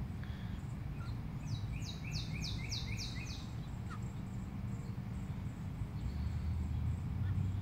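A songbird sings a quick run of about six falling notes, roughly three a second, starting about a second and a half in and lasting about two seconds, over a steady low background rumble.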